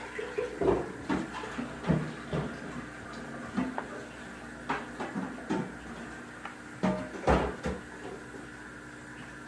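A series of irregular knocks and clicks, about a dozen, from containers and utensils being handled on a tabletop while slime is made. The loudest come about a second in and again about seven seconds in.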